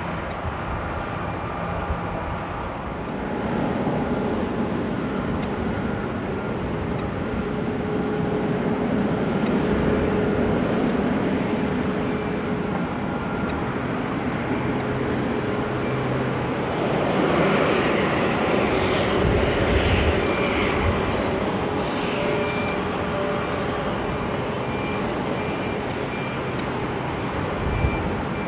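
Jet airliner engines running: a continuous rumble with faint steady whining tones, growing louder and brighter about seventeen seconds in.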